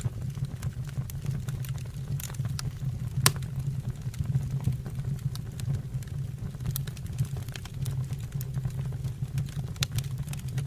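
Fireplace fire burning with a steady low rumble and scattered crackles and pops, one sharp pop about three seconds in.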